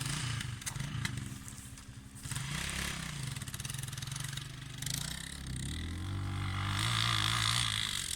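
Motorcycle engine running under throttle, its pitch dipping and rising, then climbing and growing louder over the last few seconds as it accelerates.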